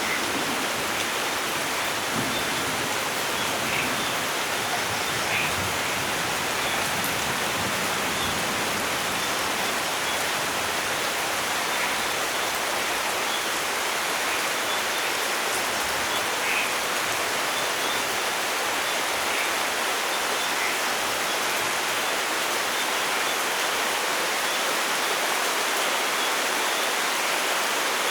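Steady rain falling in a forest, an even unbroken hiss, with a few faint short high sounds scattered through it.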